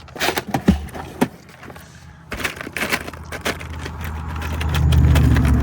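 Clicking and rattling of small parts being rummaged through, in two spells, as a supply of gel-filled wire connectors is dug out. A low engine hum swells from about four seconds in and is the loudest sound near the end.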